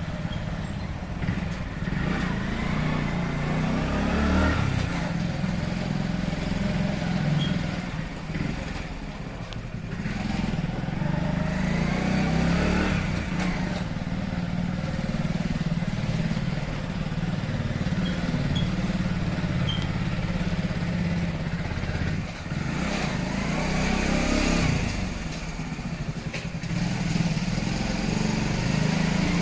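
Motorcycle engine running while riding through city traffic, rising and falling in pitch a few times as it speeds up and slows down.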